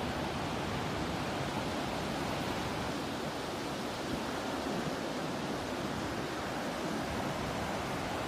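Ocean surf and breeze as a steady, even rushing wash, with no distinct wave breaks or bird calls standing out.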